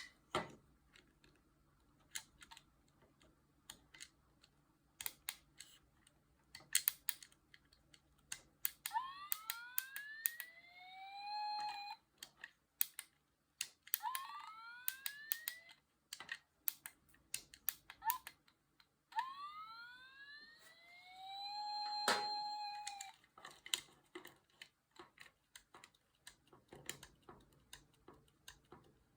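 Tomica Town toy fire station's electronic siren sound playing three times through its small speaker, each a rising wail that levels off, from its repaired sound circuit. Plastic clicks of buttons being pressed and the toy being handled run throughout.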